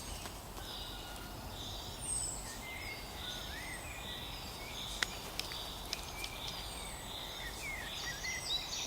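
Forest ambience with small birds chirping and giving short gliding calls throughout, over a steady background hiss.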